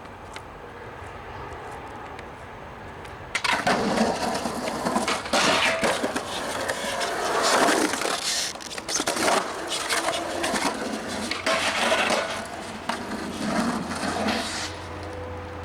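Skateboard wheels rolling over rough concrete close to the microphone, starting suddenly about three seconds in, loud and uneven with small knocks and scrapes, and fading out near the end.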